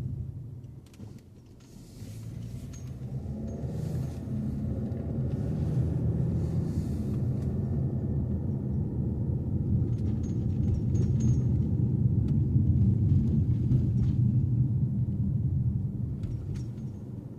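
Car engine and road rumble while driving. The rumble dips about a second in, then builds steadily as the car gathers speed.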